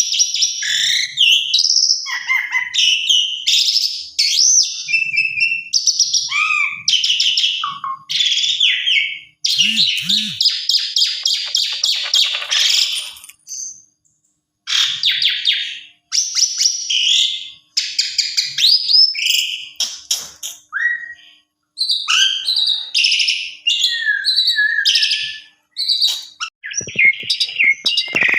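Pied starling (jalak suren) singing a loud, varied medley of whistles, chatters and a fast rattling trill, broken by a few short pauses.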